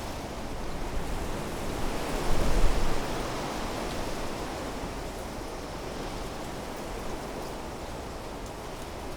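Wind blowing through trees as a steady rushing noise, with a stronger gust about two to three seconds in that brings a low rumble of wind on the microphone.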